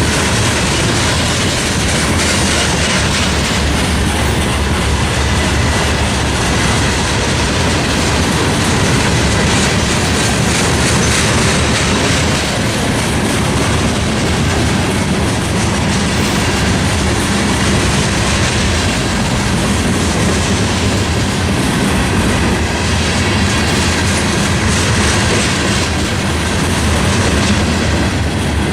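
A train's cars rolling past at close range, with a steady rumble and the wheels clicking rhythmically on the track.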